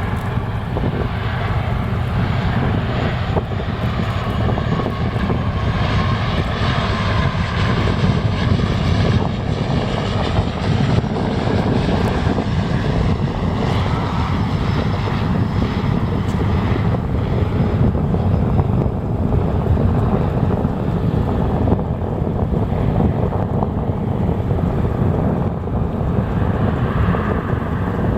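Jet airliner on approach flying past, a steady engine rumble with a faint whine that falls slightly in pitch over the first several seconds.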